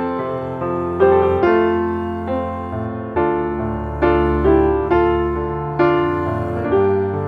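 Background piano music, gentle notes struck about once a second and left to ring and fade.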